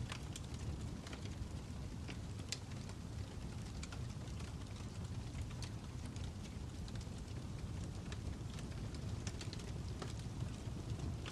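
Fire crackling: a steady low rumble of flames with irregular sharp pops and snaps scattered through it, a few louder than the rest.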